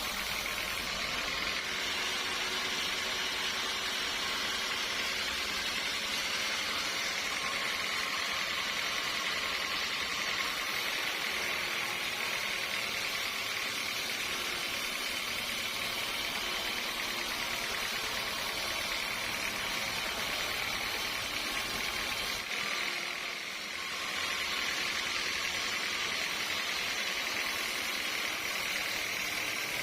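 Sawmill saw running with a steady, even noise, dipping briefly about two-thirds of the way through.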